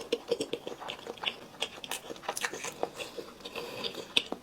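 Close-miked chewing and biting of spicy braised chicken: rapid, irregular wet mouth clicks and smacks, with a sharper bite about four seconds in.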